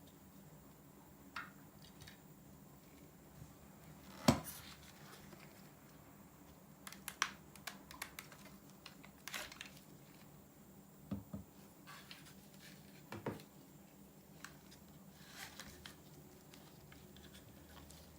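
Scattered clicks, knocks and light scrapes of small objects being handled on a work surface, with the loudest knock about four seconds in.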